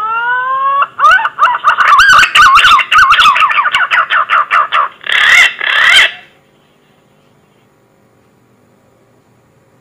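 Green pigeon (punai) call from a hunter's lure recording: a rising whistle, then a fast warbling run of whistled notes, ending in two louder, harsher notes that stop about six seconds in.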